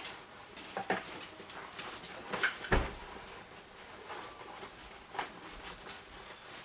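Camping and climbing gear being handled and packed: scattered rustling and light knocks, with one heavier thump a little under three seconds in.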